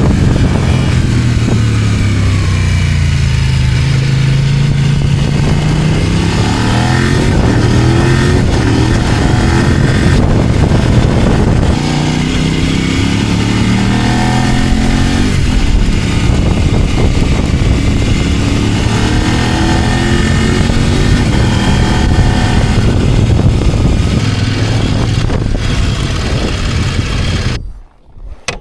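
Kove 800X Pro's parallel-twin engine running under way with heavy wind noise, ridden gently at modest revs for break-in. The engine note sinks and climbs again several times as speed and gears change, then the sound drops away suddenly near the end.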